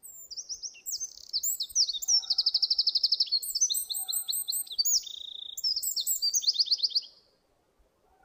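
A songbird singing one long, rapid, high-pitched song of trills and chirps that stops abruptly about seven seconds in.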